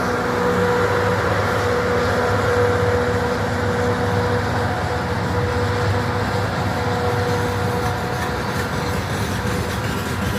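Heavy freight train hauled by a 3TE116U diesel locomotive going past: a steady rumble with the diesel engines' humming tones over the rolling noise of the train, slowly easing off.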